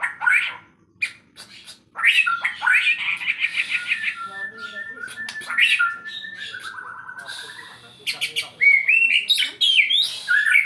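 White-rumped shama singing a varied song: fast whistled glides and sharp clicks, a buzzy chattering passage in the middle, then a run of rising whistled notes near the end. The song shows off its repertoire of learned phrases.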